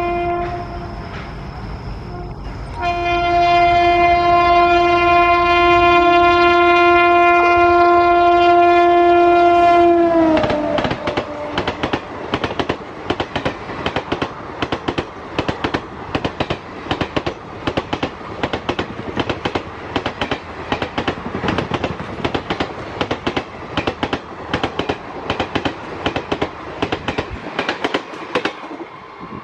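Express train passing at speed: the locomotive's air horn sounds briefly, stops, then sounds one long blast whose pitch drops as the locomotive goes by about ten seconds in. After that the coaches' wheels give a fast clickety-clack over the rail joints until it fades near the end.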